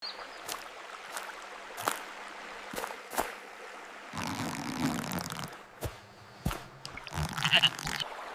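A stream trickling, with scattered sharp drips and splashes, and a lamb bleating.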